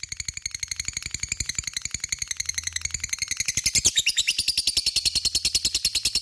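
Lovebird singing its long 'ngekek' chatter: a rapid, unbroken run of high-pitched notes, about a dozen a second. Around two-thirds of the way through, a quick sweeping note breaks in, and after it the chatter goes on a little louder.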